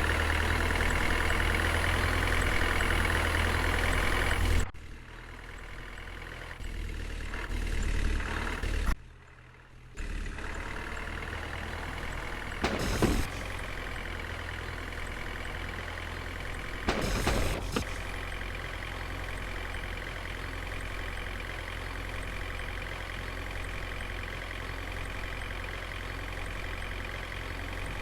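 Diesel tractor engine running steadily, broken by a few abrupt cuts in level. Twice in the middle there is a brief, louder rush of noise over the engine.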